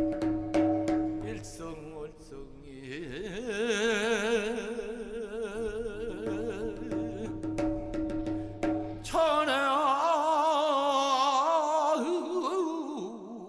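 Korean shaman-ritual music: a few quick janggu drum strokes, then long wordless sung notes (gueum) with a wide, wavering vibrato. A louder, higher phrase comes in about nine seconds in.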